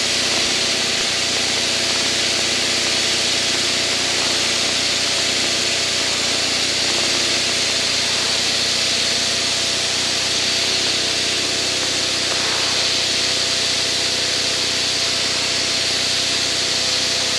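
Aircraft engine and rushing airflow heard from inside the cockpit in flight: a steady drone with constant tones beneath a loud, even hiss, holding the same pitch throughout.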